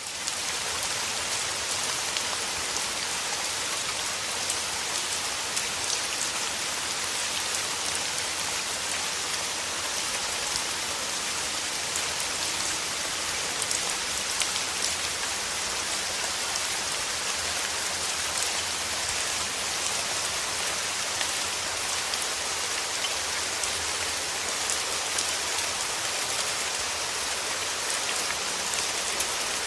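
Steady rain falling: an even hiss with many small drop ticks, rising in from silence at the very start and then holding level.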